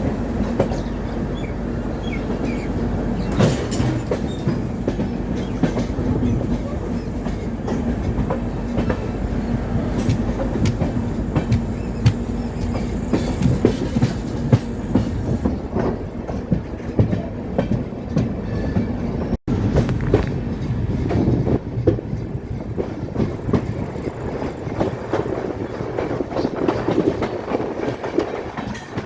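Passenger train running on the line, its coach wheels clicking irregularly over rail joints with a steady rumble underneath. The sound drops out for an instant about two-thirds of the way through, then carries on.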